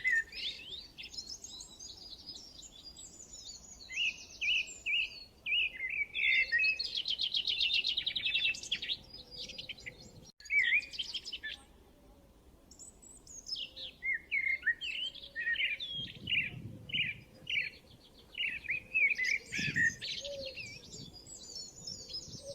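Several birds singing and chirping in a mixed chorus of short whistled and warbled phrases, with a fast rattling trill partway through. The sound drops out abruptly for a moment about ten seconds in, like an edit.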